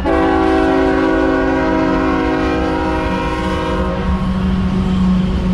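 Diesel freight locomotive's air horn sounding one long blast, several notes together as a chord, that cuts off about four seconds in. A steady low rumble of the passing train runs underneath and carries on after the horn stops.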